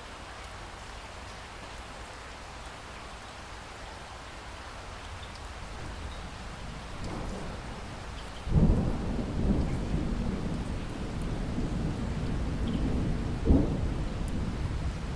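Steady rain falling, with thunder rumbling in about halfway through. There is a sudden loud crack-and-roll about 8.5 s in, and another sharp clap near the end.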